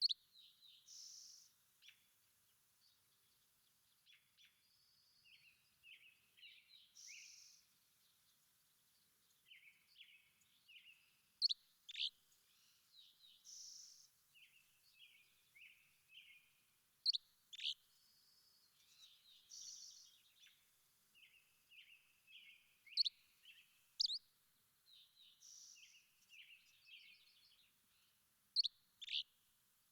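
Birds singing: a repeating phrase of a short buzzy note, a run of quick chirps, and a pair of sharp falling whistles, which comes back about every six seconds.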